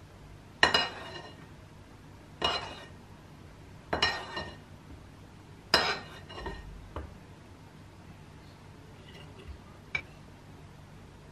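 Dishes clinking: four sharp knocks of crockery or glass, each with a brief ringing tone, in the first six seconds, then a few faint small clicks.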